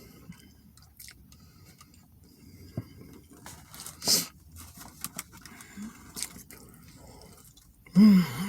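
Someone eating a Philly steak sandwich: wet chewing and mouth sounds with small clicks, a short rustle about four seconds in, and a brief voiced hum near the end.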